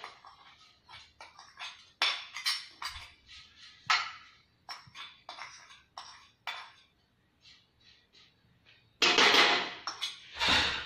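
A spoon scraping and knocking against a mixing bowl and wok as marinated soya chunks are tipped into the pan, in a run of separate clatters, with a louder, longer scrape about nine seconds in.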